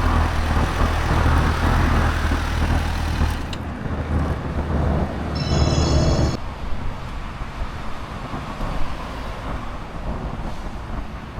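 Road-vehicle engine running steadily at a low idle. It cuts off abruptly, giving way to traffic noise with a brief high-pitched squeal partway through.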